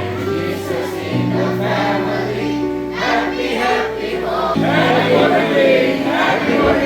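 Music: a choir singing over held instrumental chords.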